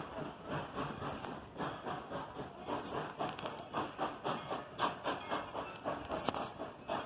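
Narrow-gauge steam train running, with an even beat of about three to four pulses a second.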